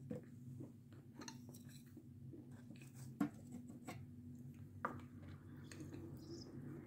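Close-up chewing of crunchy meringue with the mouth closed: soft, irregular crunches and small clicks, two sharper ones about three and five seconds in.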